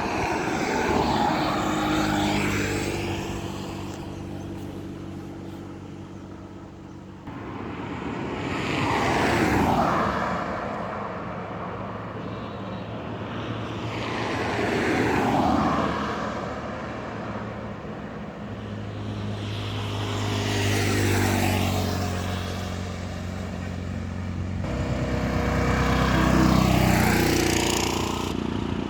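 Trucks and buses passing at highway speed one after another, about five pass-bys, each engine drone and tyre noise swelling and then falling away as the pitch drops.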